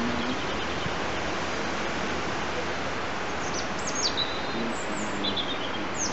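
Outdoor ambience: a steady hiss of background noise, with a small bird giving several short, high, falling chirps from about halfway through.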